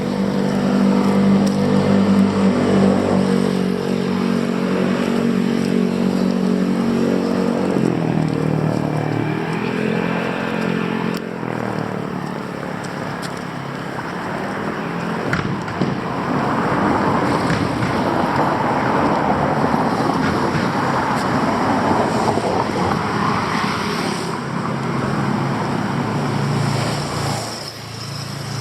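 Street traffic: a nearby vehicle engine running with a strong steady hum, its pitch dipping and rising again about eight seconds in, followed by the broad rushing noise of passing traffic.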